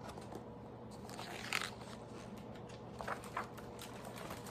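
Paper page of a picture book being turned: a few faint rustles and crinkles, one about one and a half seconds in and two close together about three seconds in, over a faint steady room hum.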